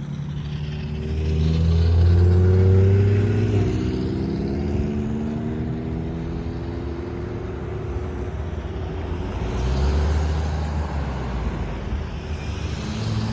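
Road traffic passing: vehicle engines and tyres rising to a loud rumble about two seconds in and again near the end.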